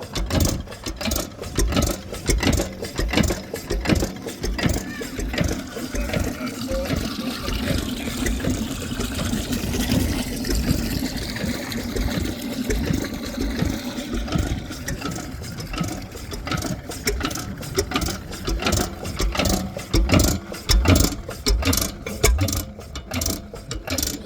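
McDonald F diesel stationary engine running with a slow, regular beat.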